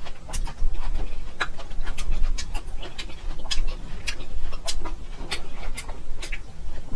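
Close-miked chewing of raw ginger root: irregular crisp crunches and wet mouth clicks, a few each second, over a low steady hum.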